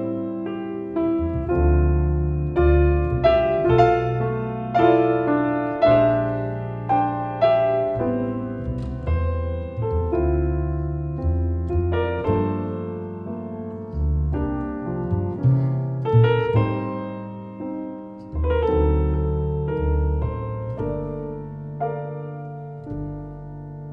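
Acoustic piano and double bass playing a slow piece together: piano chords and melody notes struck every second or so over long, sustained low bass notes.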